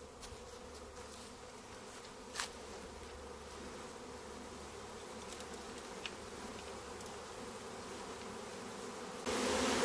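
A swarm of honeybees buzzing steadily as they are brushed into a nuc hive box. There is a single sharp click about two seconds in, and the buzzing gets louder near the end.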